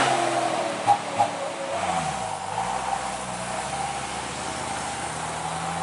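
Old truck's engine running on a steep climb. Two short knocks come about a second in, and the engine's pitch dips and comes back up around two seconds in before running steady again.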